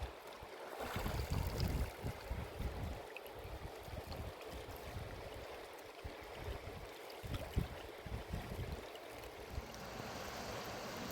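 Mountain river water rushing steadily, with irregular gusts of wind buffeting the microphone.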